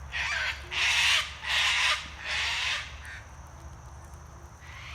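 Australian magpies giving harsh alarm calls, four rasping squawks in quick succession, then quiet from about three seconds in. These are warning cries at a carpet python.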